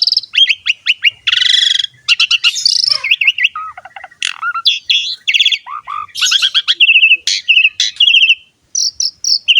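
Asian pied starling (jalak suren) singing a fast, varied song: runs of quick repeated chirps, whistled notes that slide up and down, and a few harsh buzzy notes.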